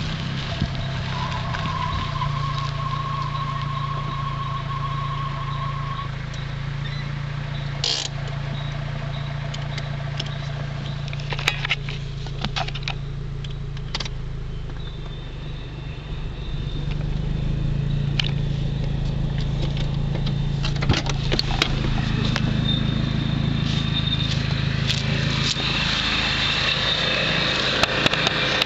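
1998 Ford Escort ZX2's four-cylinder engine idling with a steady low hum, and a thin steady whine that comes and goes over it. This is the unexplained noise that the owner has heard since buying the car; they have been told it could be the cooling fan, its motor, or pulley/belt tension. Scattered knocks and clicks come from the camera being handled.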